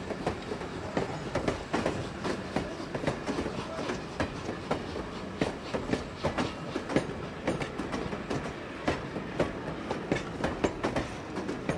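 Train wheels running over rail joints: a steady rolling rumble with many irregular clicks and clacks, several a second.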